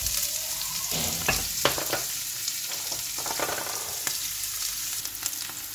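Chopped onion and garlic sizzling steadily in hot oil in a frying pan, with a few light clicks and knocks in the first couple of seconds.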